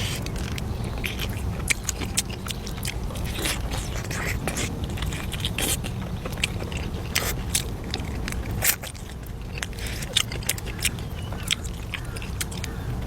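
A person eating close to the microphone: irregular bites, chewing and crunchy clicks, over a steady low hum.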